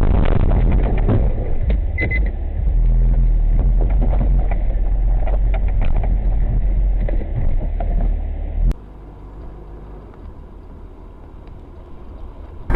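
Car on the road heard from inside, a steady low rumble of engine and tyres with scattered knocks. About two-thirds of the way through it cuts abruptly to a quieter low rumble, and a short loud noise comes at the very end.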